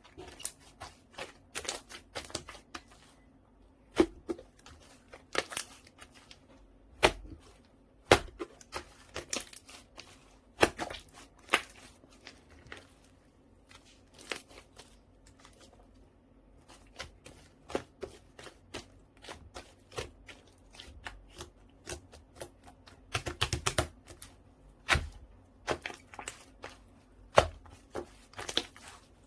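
Slime being squished, stretched and pressed by hand on a wooden desk, giving irregular sharp pops and clicks, with a quick run of them about 23 seconds in.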